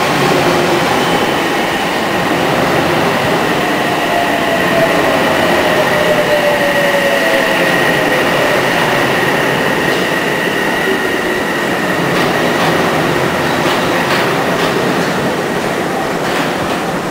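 Odakyu electric commuter train pulling in alongside a platform and slowing to a stop: steady wheel and running noise, with a motor whine that falls slowly in pitch as it slows and a steady high squeal.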